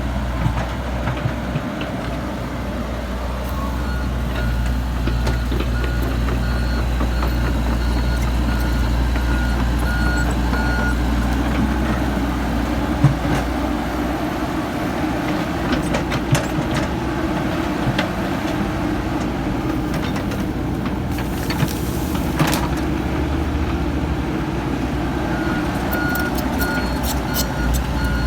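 Komatsu PC70-8 excavator's diesel engine running steadily, with a rapid beeping travel alarm from about three to eleven seconds in and again near the end. A few sharp knocks and clanks come in the middle.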